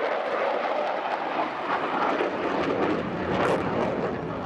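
Jet noise of F-15 fighters in flight: a steady rushing roar, with a deeper rumble building about a second and a half in.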